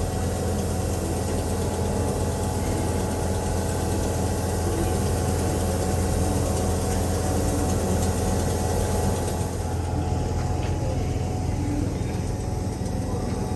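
A train standing at the platform with its engine or traction equipment running: a steady low hum with a few higher steady tones above it. It swells up at the start and eases off near the end.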